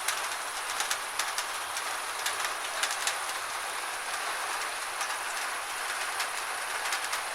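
Gentle rain falling steadily: an even hiss with scattered drops ticking irregularly on a surface.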